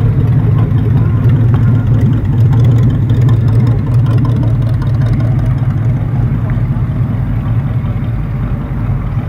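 A car's engine running steadily with a low rumble, growing a little quieter near the end.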